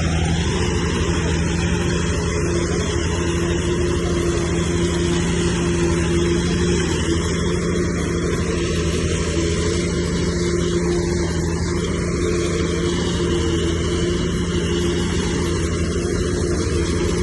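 Bulldozer's heavy diesel engine running steadily at a constant pitch.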